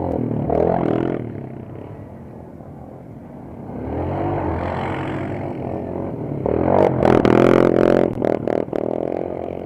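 Off-road vehicle engine revving: the pitch rises and falls as it is throttled, dropping away about two seconds in and swelling again to its loudest near seven seconds, with a few knocks or clatters over it near the end.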